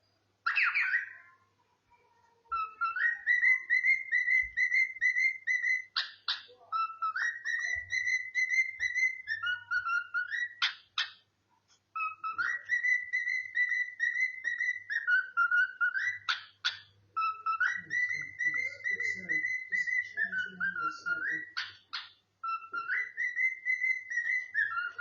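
Pet cockatiel whistling the same short learned melody over and over, about five times, each phrase rising to a held note and then dipping, with a few sharp clicks between phrases.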